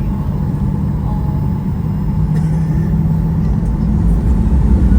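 Jet airliner's engines spooling up for the takeoff roll, heard from inside the cabin: a steady low rumble that grows louder over the last second or two.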